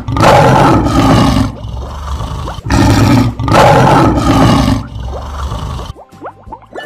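Lion roar sound effect, twice: a long roar at the start and another about three seconds in, each trailing off.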